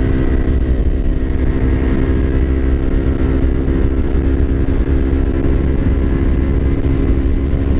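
Yamaha R25's parallel-twin engine running at a steady pitch while riding, with heavy low wind rumble on the microphone.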